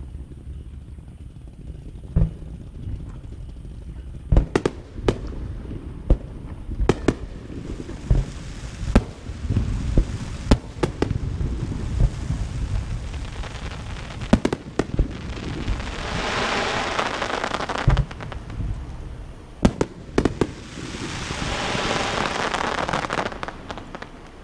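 Fireworks going off: sharp bangs at irregular intervals, thickening through the middle, with two long stretches of dense crackling, one past the middle and one near the end.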